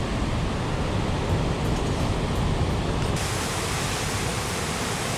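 Steady rushing noise of the Potomac River's rapids at Great Falls, heavy in the low range; the hiss turns suddenly brighter about three seconds in.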